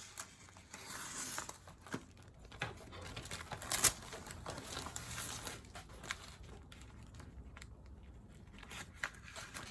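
Scissors cutting through plastic peel-and-stick shelf liner, with crinkling of the liner between several sharp snips, the loudest about four seconds in.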